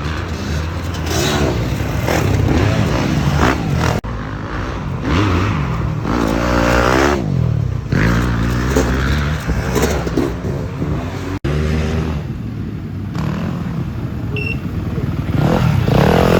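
Dirt bike engines revving up and down in pitch, over and over. There are short abrupt breaks about four and eleven seconds in.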